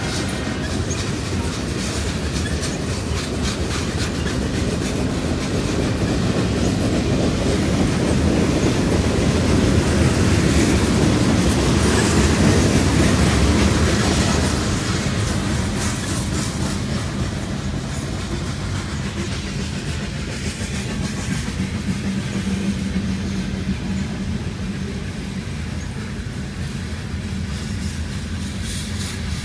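Freight cars of a long mixed freight train rolling past a grade crossing: tank cars and covered hoppers make a steady rumble of steel wheels on rail, with repeated clicking over rail joints. The sound swells to its loudest about halfway through, then eases a little.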